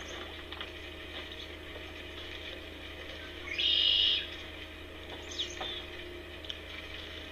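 A single harsh, high bird call lasting about half a second, a little past halfway, followed about a second later by a faint short call falling in pitch. A steady low hum runs underneath.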